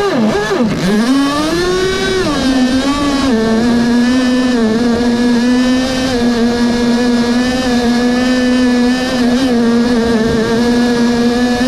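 Small nitro glow engine of a radio-controlled boat running, its pitch swinging up and down for the first few seconds and then holding a steady high note at speed.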